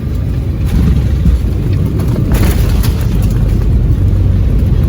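Loud, steady low rumble inside the cabin of an Embraer E175 airliner on its landing. A harsher, noisier surge comes about two and a half seconds in and lasts about a second.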